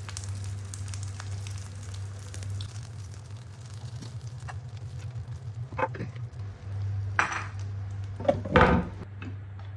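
Fried egg and sausage sizzling faintly in a nonstick breakfast pan, over a steady low hum. A few sharp knocks come in the second half, the loudest near the end.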